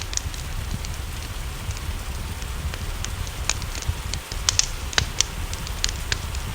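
Wood fire crackling in a fireplace, with irregular sharp pops and snaps, over a steady hiss of rain and a low rumble.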